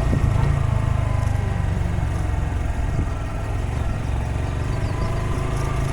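Honda Grom mini bike's single-cylinder engine running steadily on the move, at an even pitch throughout.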